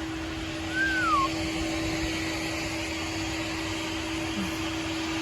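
Steady hum and hiss of a running car interior with a constant low tone. A brief high tone falls in pitch about a second in.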